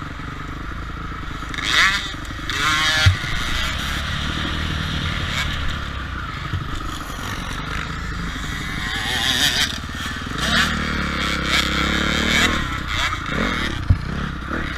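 Motocross bike engines running and revving up and down, the pitch climbing and dropping as the throttle opens and closes. There is a sharp knock about three seconds in and another near the end.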